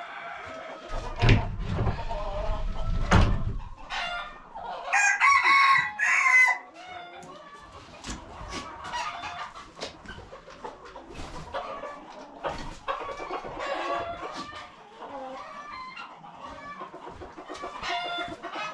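Free-range chickens clucking, with a rooster crowing once about five seconds in. A few loud low knocks come just before the crow.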